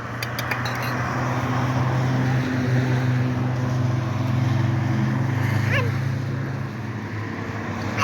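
A motor vehicle's engine running nearby, a steady low hum that swells over the first few seconds and eases off near the end, with a few faint clicks early on.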